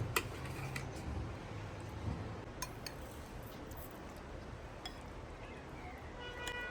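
Light clinks and taps of dishes and spoons, a few scattered strokes with the sharpest near the start, over a low steady rumble.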